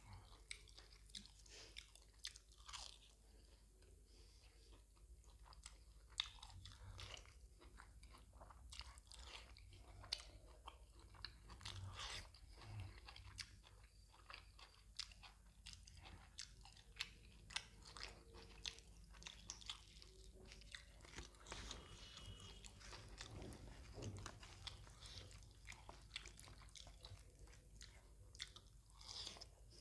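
Faint close-miked chewing of puri dipped in mutton tripe (botti) curry: soft mouth and chewing sounds broken by many short, sharp clicks.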